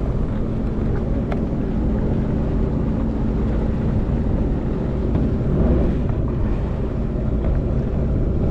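Small boat's motor running at a steady speed, with wind rumbling on the microphone.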